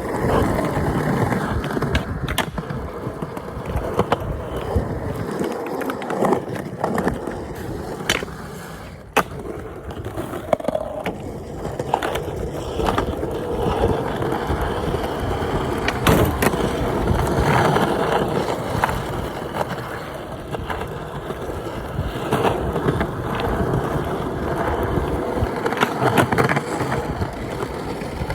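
Skateboard wheels rolling over pavement with a continuous rumble. Sharp clacks of the board hitting the ground break in several times, the loudest about two, eight, nine and sixteen seconds in.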